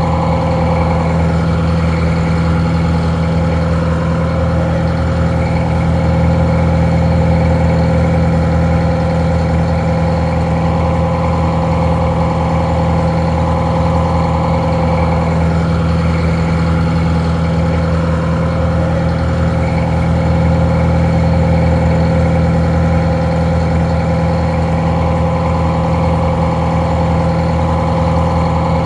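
Detroit Diesel 4-71 two-stroke, Roots-blown four-cylinder diesel idling steadily, sounding a little muffled.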